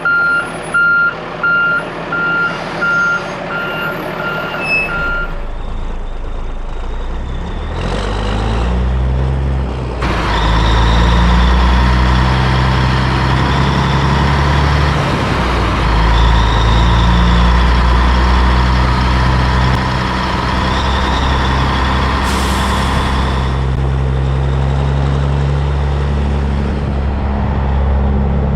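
Back-up alarm beeping about once a second for the first five seconds, then a heavy diesel engine revs up and runs at high speed with a whine, as on a crane working its hydraulics. A short hiss of air comes about three quarters of the way through.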